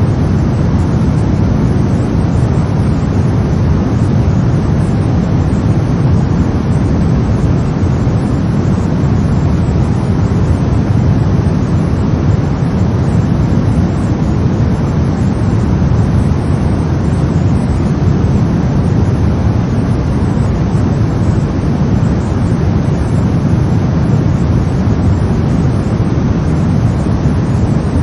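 Brown noise: a steady, deep rumbling hiss with its energy mostly in the low end and no variation.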